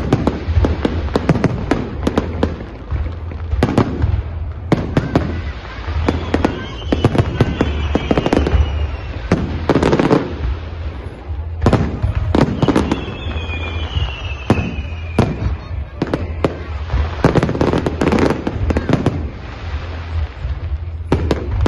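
Fireworks display: rapid, overlapping bangs of aerial shells and crackling. Two groups of whistles falling in pitch come through, one about a third of the way in and one just past the middle.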